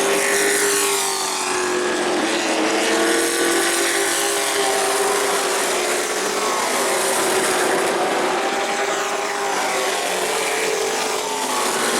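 Race trucks' engines running at speed on a paved short-track oval, several engines overlapping with their pitch rising and falling gently as they circulate.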